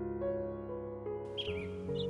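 Soft piano music with sustained notes; a little over a second in, birds start chirping over it in short quick calls.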